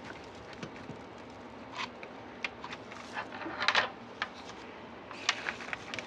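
Handling noise from working on a tinsel wreath: light clicks and rustles of ornaments and garland being moved, with a denser rustle about three and a half seconds in and a few sharp clicks a little after five seconds.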